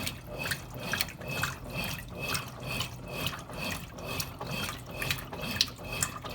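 Consul Cargo 8 kg washing machine running with water in the tub, sloshing in a steady rhythm of about two swells a second over a faint low motor hum.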